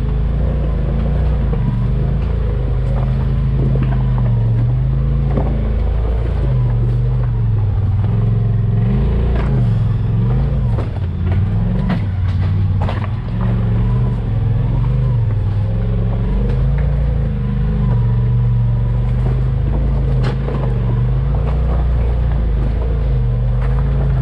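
Off-road vehicle's engine running under varying throttle, its pitch dropping and rising again and again. Sharp knocks come through near the middle.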